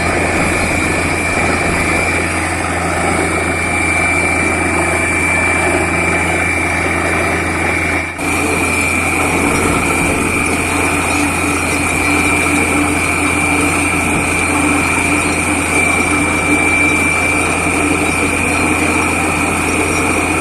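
Borewell drilling rig running steadily, with a constant low engine hum and a steady high whine. The sound dips briefly about eight seconds in.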